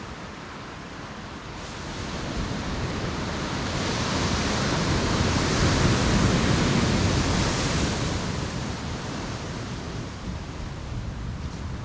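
Ocean surf breaking on the shore: the wash of a wave builds up, peaks about halfway through and then ebbs away again.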